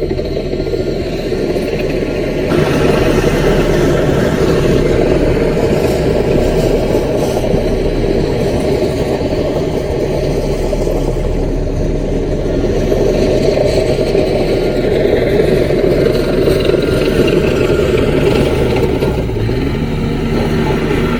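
A CAT mini bulldozer's diesel engine running steadily while it works. It grows louder about two and a half seconds in, then holds steady.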